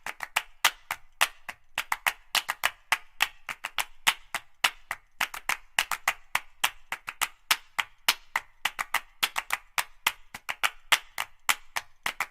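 Sharp, dry percussive clacks, several a second in an uneven rhythm, like wood blocks or clappers being struck.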